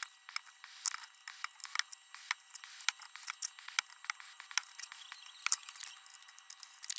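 A pointed scratch-brush tip scrubbing old solder off a lantern's sheet metal by hand, making quick, irregular scratchy ticks and scrapes.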